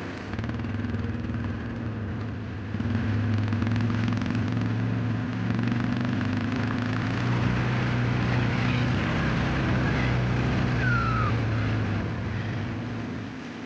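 An engine running steadily, getting louder about three seconds in and easing off near the end, with a brief high falling squeak about eleven seconds in.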